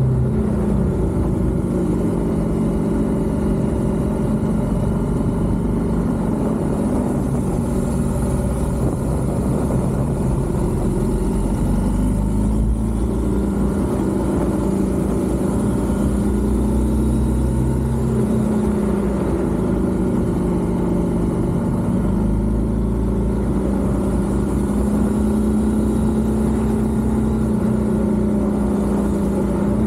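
BMW R1200GS boxer-twin engine running under way at road speed, its pitch rising and falling several times with throttle and gear changes through the bends.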